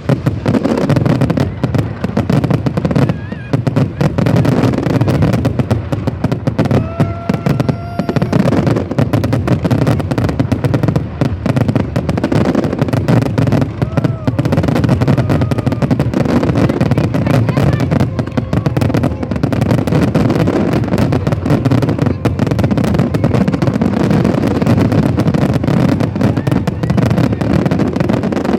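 A fireworks display going off in a rapid, unbroken barrage of crackling bangs, with crowd voices mixed in underneath.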